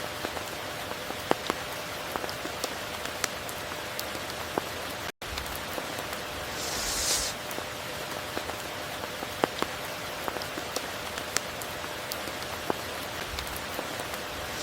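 Steady rain falling, an even hiss with scattered individual drops ticking sharply. A brief swell of higher hiss comes about seven seconds in, and the sound cuts out for an instant about five seconds in.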